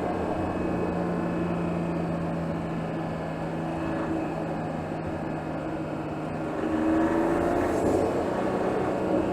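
Mercedes GLS 450's turbocharged 3.0-litre inline-six, heard from under the hood, running at a steady engine speed while driving. About seven seconds in it revs up as the car accelerates, its note rising and getting louder.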